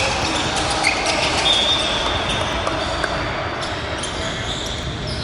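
Indoor basketball game: a ball bouncing on a hardwood court amid the scuffle and noise of play, with high-pitched squeaks, the longest lasting about two seconds from a second and a half in.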